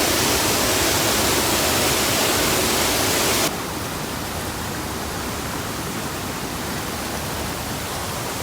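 Steady rushing of a waterfall, an even wash of noise. About three and a half seconds in it drops suddenly to a quieter, duller rush.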